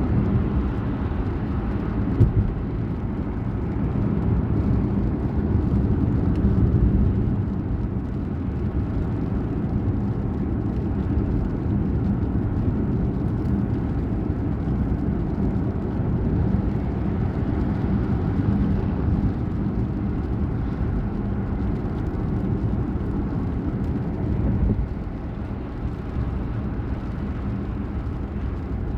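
Steady low rumble of a moving vehicle, with a faint hum, running evenly throughout.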